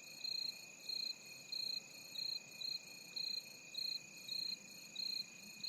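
Insects calling: a steady high trill under a cricket chirp repeating evenly about twice a second.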